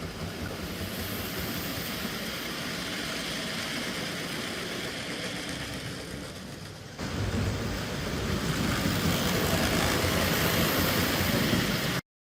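OO gauge model locomotive running on the layout's track, a steady rumble of motor and wheels. It jumps louder about seven seconds in and cuts off suddenly near the end.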